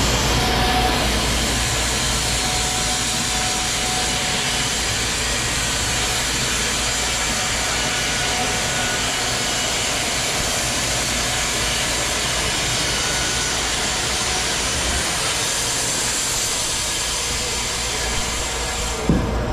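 Electric Wood-Mizer LT15 portable band sawmill running steadily, its band blade cutting along a log.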